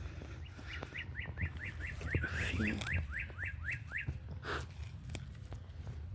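A bird singing a run of about fourteen quick, evenly repeated short notes, about four a second, which stops about four seconds in.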